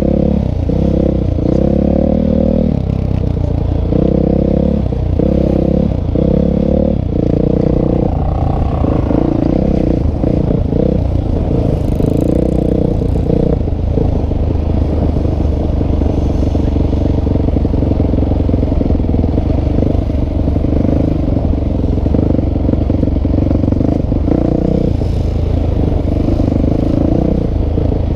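Motocross motorcycle engines racing, revving up and down in a quick pulsing rhythm for the first several seconds, then running more steadily.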